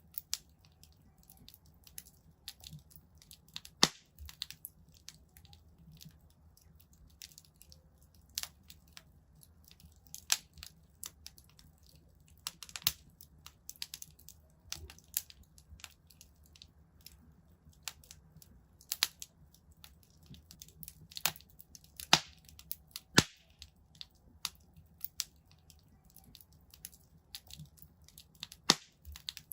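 Wood fire in a fireplace crackling, with irregular sharp pops and snaps, some much louder than others, over a faint steady low rumble.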